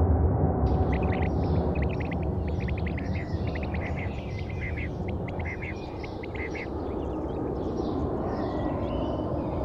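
Birds chirping rapidly over a steady low rumble, the chirps thinning out after about six seconds.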